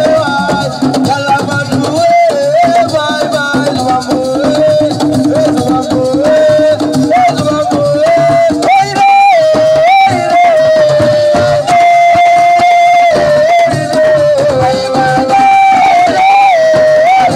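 Live assiko band music: a loud melodic lead line that steps and slides in pitch over drums.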